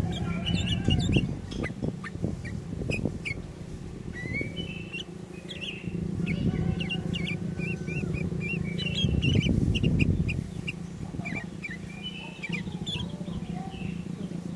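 Sooty-headed bulbul (kutilang) calling: rapid runs of short chirps and brief whistled phrases throughout. Beneath them runs a steady low rumble that swells twice, around two seconds in and again near ten seconds.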